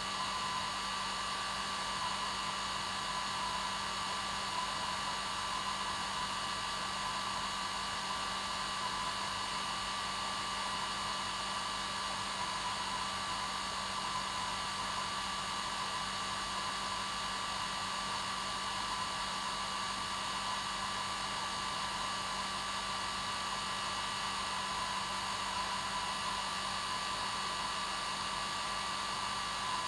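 Hair dryer running steadily on its normal setting: an even blowing rush with a constant motor whine and no change in speed.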